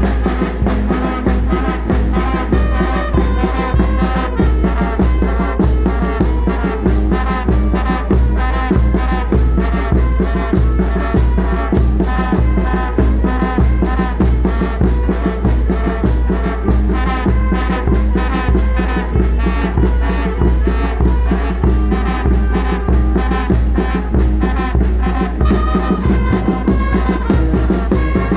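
A Oaxacan banda, a wind band of brass and woodwinds with drums, playing an up-tempo tune with a steady beat over a strong bass line.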